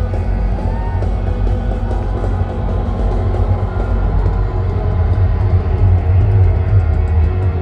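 Live rock band playing loudly with heavy bass, an instrumental stretch with no singing.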